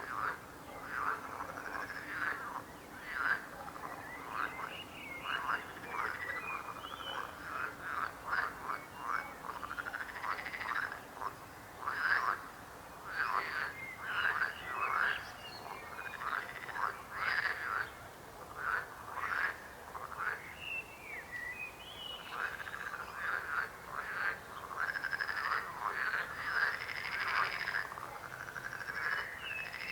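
A chorus of many frogs croaking, their calls overlapping and repeating without pause.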